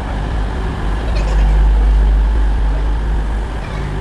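Bus engine and road noise heard on board, a steady low rumble.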